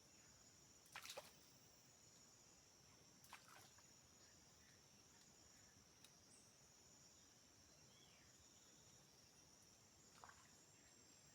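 Faint rainforest insect chorus: a steady high-pitched drone of crickets or similar insects, with a few brief sharp clicks about a second in, at about three seconds and near the end.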